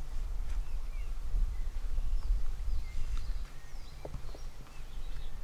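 Small birds chirping now and then over a low, uneven rumble.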